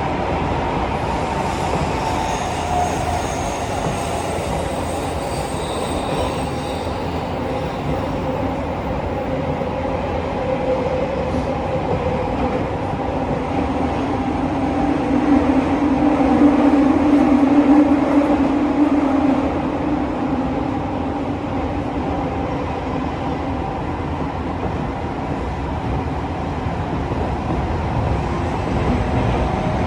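Tokyo Metro 15000 series subway train running through a tunnel, heard from inside the car: a steady rolling rumble of wheels on rail with humming motor tones, with faint high tones in the first several seconds. About halfway through the noise swells louder with a strong hum, then settles back.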